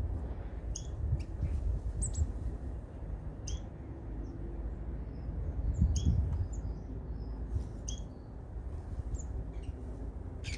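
Small garden birds chirping: short, high calls scattered through, several a second at times, over a steady low rumble that swells briefly about six seconds in.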